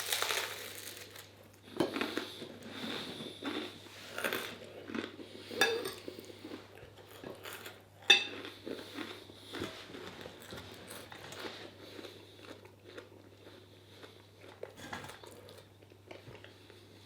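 Cutlery clinking and scraping on a plate, mixed with chewing, as a meal is eaten; scattered small clicks, the sharpest about eight seconds in.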